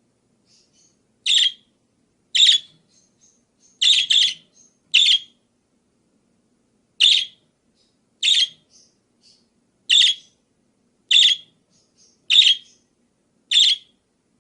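A parakeet giving about eleven loud, short, sharp calls, one every second or so with a pause midway, and faint soft chirps in between. A faint steady low hum runs underneath.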